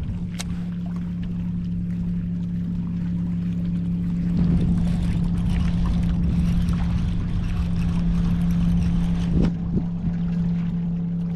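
A boat motor running with a steady, even hum over water noise, growing louder about four seconds in and easing a little near the end.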